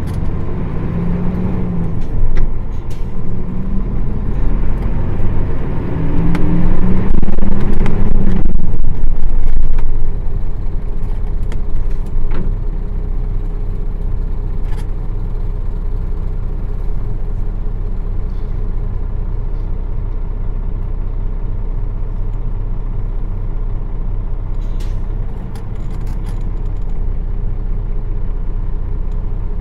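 Nissan Diesel PF6 diesel engine of a city bus heard from on board, pulling away and rising in pitch through the gears for the first nine seconds or so, then dropping back to a steady, quieter running for the rest.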